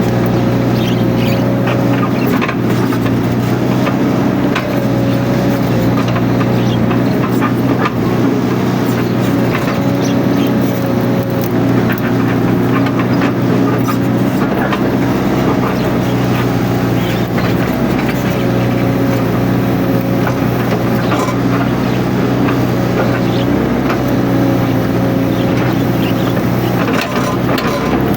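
Mini excavator's diesel engine running steadily at working speed, with a hydraulic whine that rises and fades every few seconds as the boom and bucket work. Scattered clicks and cracks run through it.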